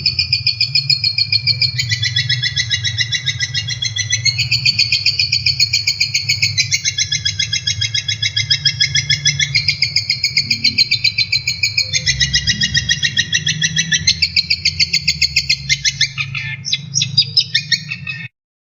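Cendet (shrike) singing a long unbroken trill of very rapidly repeated high notes, shifting pitch every couple of seconds, over a steady low hum. It cuts off suddenly near the end.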